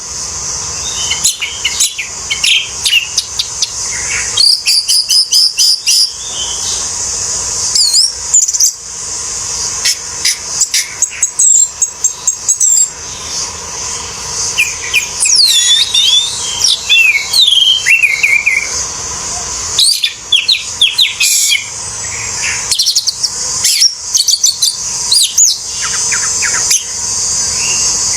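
Orange-headed thrush singing non-stop, a rapid, varied song of whistled glides, short trills and sharp chirps with hardly a pause, over a steady high-pitched hiss.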